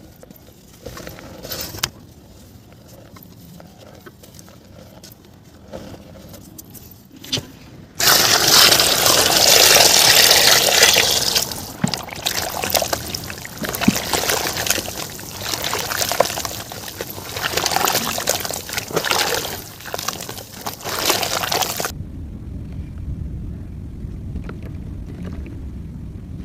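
Wet mud paste crumbling into water, with water splashing and pouring: quiet crumbles and clicks at first, then a loud stretch of dense splashing that cuts off abruptly, leaving a low steady rumble.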